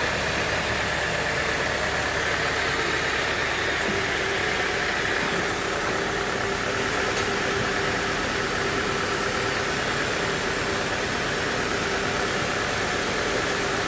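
Band sawmill machinery running steadily: a constant engine-like hum with a steady whine over it.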